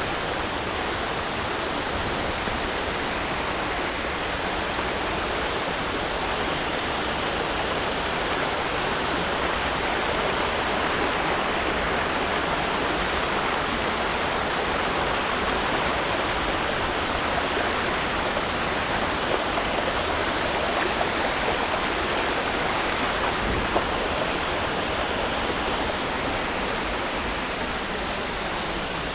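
Steady rushing of water in a rocky mountain stream.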